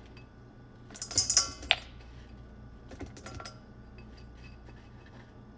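Crushed pistachio nuts tipped into a mixing bowl: a quick rattle of small clicks about a second in, then a few fainter clicks.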